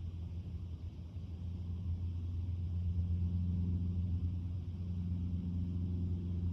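A steady, low engine drone that grows louder and shifts slightly in pitch near the end.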